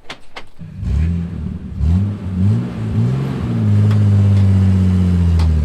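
A few sharp clicks, then a Jeep's engine revving in short rising blips and holding a steady higher rev while crawling over rock, easing off near the end.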